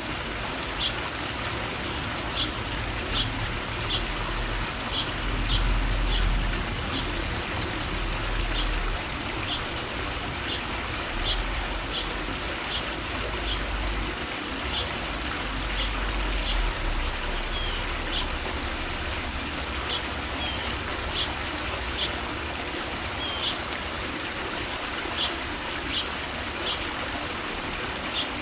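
A small bird giving short, sharp chip calls about once a second, a few of them slurring downward, over a steady rushing hiss like running water.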